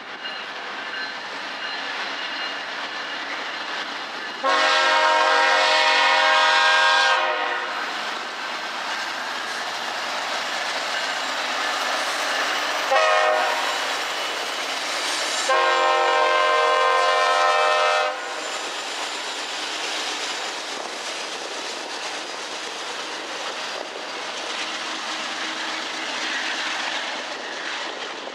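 Kansas City Southern freight train passing close by. The lead diesel locomotive's multi-chime air horn sounds a long blast, a short one, then another long blast, over the steady rumble of the locomotives. The horn then stops, and covered hopper cars roll by with wheel noise on the rails.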